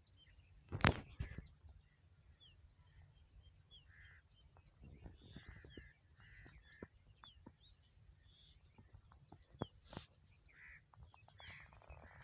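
Small birds chirping on and off, with a sharp crack about a second in and a second, weaker crack near the end.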